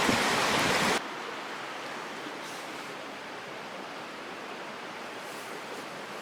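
Steady rushing of a mountain stream. For about the first second it is louder, with more rumble, then it drops abruptly to a quieter, even rush.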